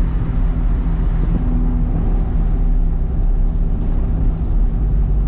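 Cab noise of a Hino cab-over box truck being driven unloaded: its diesel engine and the road make a steady low drone.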